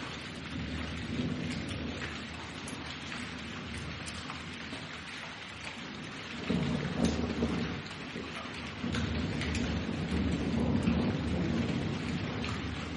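Steady rain falling, with low rolls of thunder rumbling in about halfway through and again a few seconds later.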